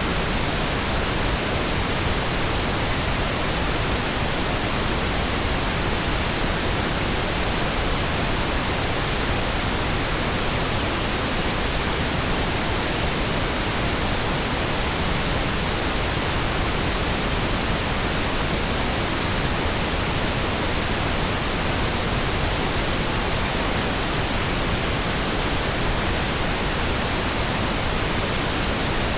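Steady, continuous pink noise: an even hiss across all pitches, with nothing changing.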